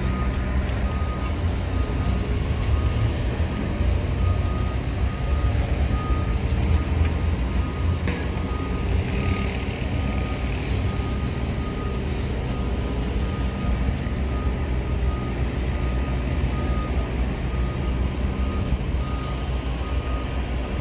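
Electric suburban train pulling out of the platform and drawing away: a steady low rumble of motors and wheels on the rails. A high tone beeps on and off, and there is a brief hiss about halfway through.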